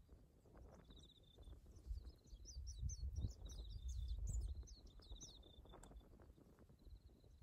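Birds chirping, with repeated short high trills and quick falling chirps, over a low rumble that swells in the middle.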